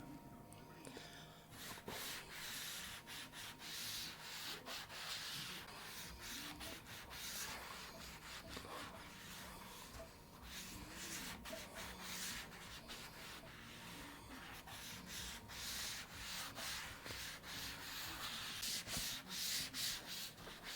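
Scrubbing on a microwave's front panel: a long run of quick rubbing strokes, starting about two seconds in, working a degreaser foam over the greasy surface.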